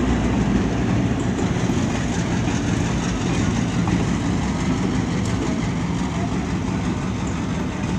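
Stone Mountain excursion train with a diesel locomotive moving past: open-air passenger cars rolling along the track with a low rumble that eases off slightly over the clip.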